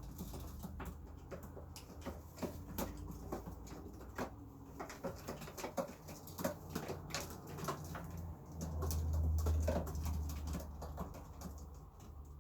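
Young racing pigeons in the loft: irregular clicks and taps of feet and beaks, over a low rumble that swells about nine seconds in.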